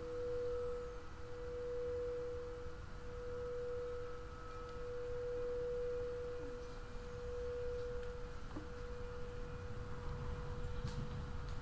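Crystal singing bowls ringing with sustained pure tones: a lower tone fades out about halfway through while a higher one rings on, swelling and ebbing slowly. A couple of faint ticks near the end.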